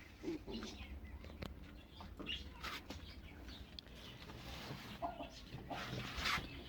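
Faint hen clucks and a few brief flurries of wing flapping as a hen fights with pigeons.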